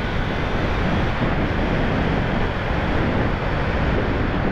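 Steady rushing wind and road noise on the microphone of a rider on a Kawasaki Ninja 300 motorcycle under way.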